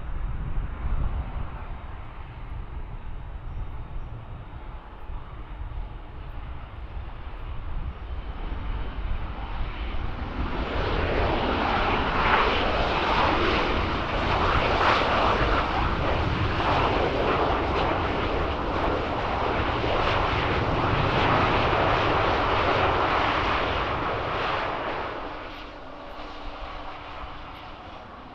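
Bombardier Global 7500 business jet's two turbofans passing on the runway: a low rumble that swells into a loud jet rush about ten seconds in, holds for some fifteen seconds, then fades near the end.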